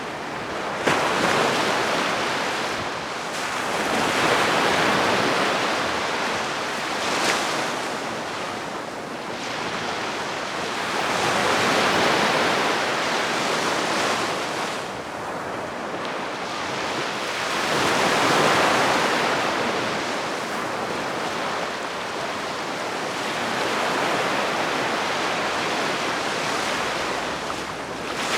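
Calm, gentle sea waves washing onto the shore, each surge swelling and drawing back every six or seven seconds.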